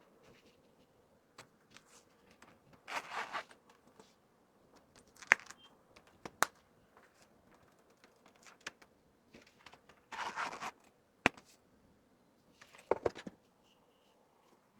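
Items and packaging being handled while an order is packed: three short bursts of rustling, with a few sharp clicks and taps between them.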